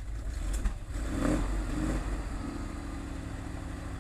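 Army truck engine running under load, most likely the ZIL-131's V8, with a steady low rumble. About a second in it swells briefly, then settles to a steady hum.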